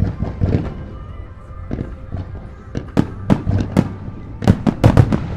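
Aerial fireworks shells bursting, a run of sharp bangs that starts suddenly and comes thicker and louder from about three seconds in.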